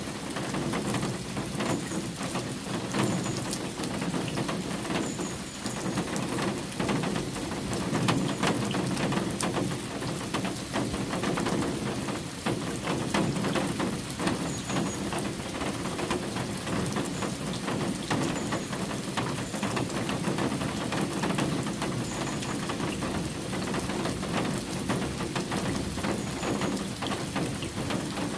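Steady rain falling, a continuous hiss dotted with many small drop patters.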